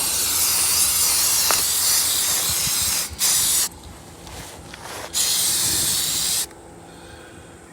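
Aerosol can of gray primer spraying: a long hiss of about three seconds, a short burst, then a longer burst of about a second and a half, stopping about a second before the end.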